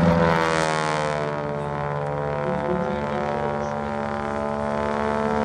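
Boeing Stearman biplane's radial engine passing by in flight, its pitch dropping during the first second or so, then a steady drone.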